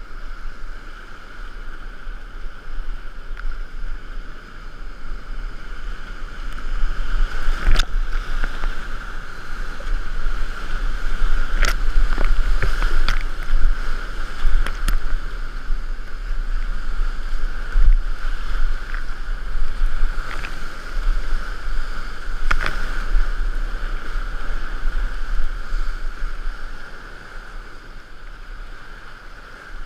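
Rushing whitewater of a big river rapid, with a kayak paddling through it and sharp splashes or knocks against the boat and camera several times. The rush grows louder through the middle and eases near the end.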